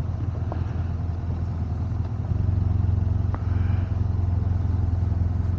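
Parallel-twin motorcycle engine running at low speed on a rough road, getting a little louder about two seconds in as more throttle is given, with a couple of faint ticks.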